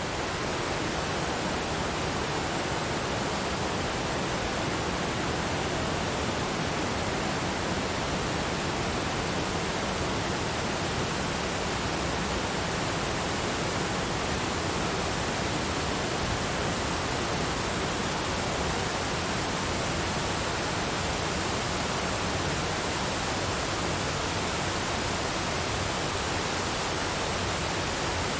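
Steady, even rushing of water, like a waterfall, with no breaks or changes.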